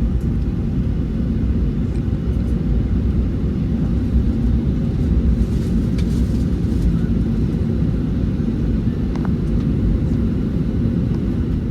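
Steady low rumble of cabin noise inside a Boeing 737-800 taxiing after landing: engine and airframe noise heard from a window seat.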